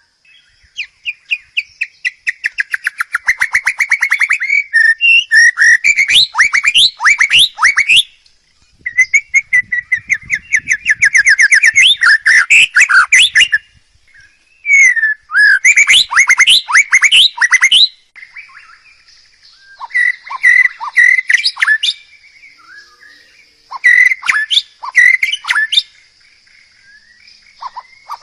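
A songbird singing loud, fast phrases of rapidly repeated notes and trills, in bursts of several seconds separated by short pauses; the phrases grow shorter in the second half.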